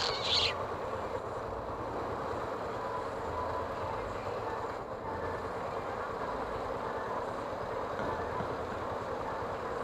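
Yamaha Fazer 250 single-cylinder motorcycle engine running steadily at low town speed, with road and traffic noise. A brief high-pitched squeal comes right at the start.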